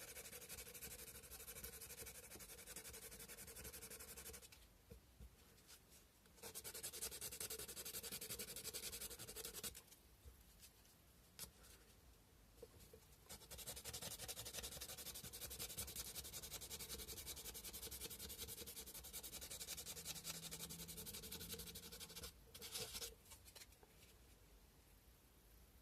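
Sandpaper rubbed by hand on a cow-bone fish hook carving, a fast dry scratching in three long spells of rapid strokes with short pauses between them.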